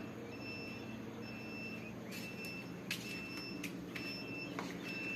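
Steady electronic beeping, one high beep about every second, over a low machine hum. A few short, sharp chirps come through near the middle.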